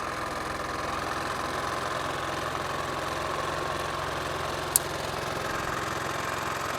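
Champion 4500-watt inverter generator's 212cc gasoline engine running steadily in eco mode, a low, even hum. A single sharp click comes near the end.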